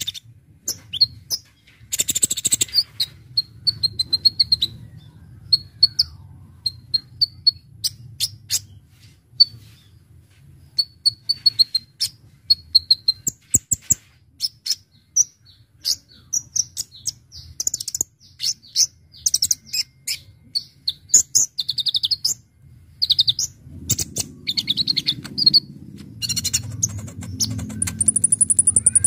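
Kolibri ninja (a sunbird) singing: a rapid, varied run of sharp high chirps, short trills and clicking notes with brief pauses between phrases, over a faint low hum.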